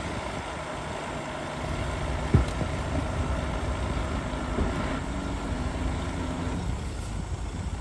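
Heavy diesel engine of earthmoving machinery running steadily, getting louder about one and a half seconds in, with a single sharp metallic knock a second later.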